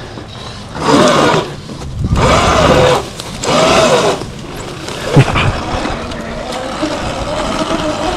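Sur-Ron Light Bee X electric dirt bike under throttle: three short bursts of acceleration, the motor's whine rising and falling in pitch with each burst, with wind and tyre rush. It then settles into a quieter, nearly steady whine at an even pace, with one sharp knock about five seconds in.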